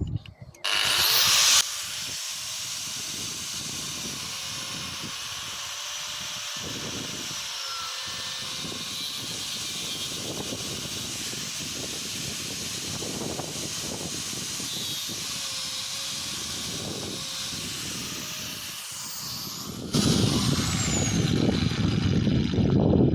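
A power tool running steadily for about eighteen seconds: an even hiss with a faint, slightly wavering hum. It starts and stops abruptly.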